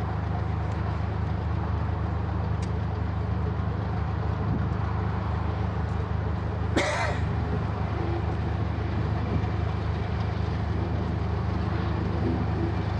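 Diesel locomotive engine idling with a steady low hum. A single short, sharp sound cuts in about seven seconds in.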